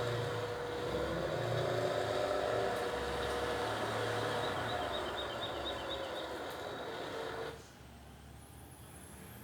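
An engine running steadily. The sound cuts off abruptly about three-quarters of the way through, leaving a much quieter background.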